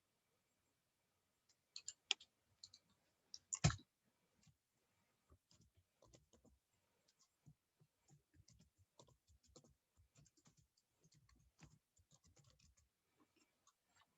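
Faint clicks of a computer mouse: a few clicks in the first four seconds, the loudest just under four seconds in, then scattered very faint ticks, against near silence.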